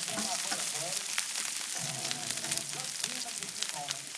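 Onions, ginger and garlic frying in a hot skillet on a barbecue: a steady sizzle full of small crackles.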